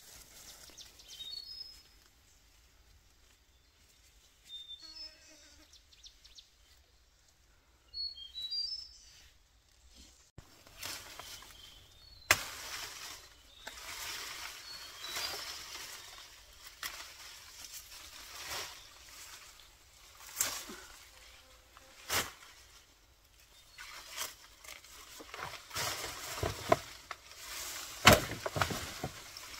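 Birds chirping outdoors, a few short falling calls in the first third. After that, irregular rustling with sharp clicks and knocks of something being handled or stepped on, the loudest clacks near the end.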